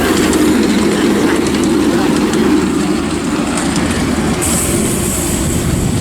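Miniature railway train running along its track: a steady rumble of the wheels on the rails with faint ticks, and a high hiss that joins in about two thirds of the way through.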